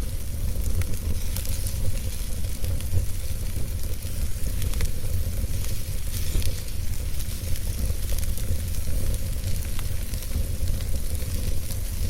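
Wood fire burning in a fireplace, with a steady low rumble of flame and frequent small crackles and pops of burning wood over a soft hiss.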